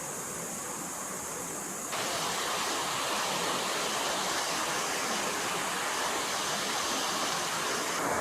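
Forest stream water flowing in a steady rush, jumping suddenly to a louder, fuller rush about two seconds in.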